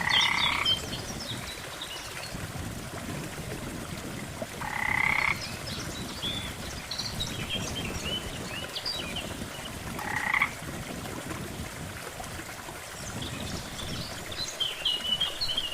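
Frogs calling at a lake: a louder croak comes about every five seconds, three times, over many smaller, higher chirping calls.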